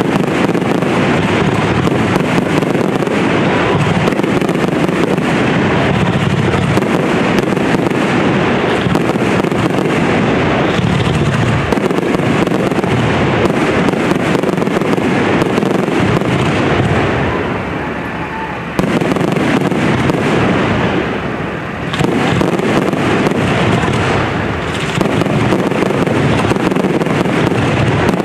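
Aerial fireworks display going off in a rapid, nearly continuous string of bangs and crackles, easing briefly twice in the second half.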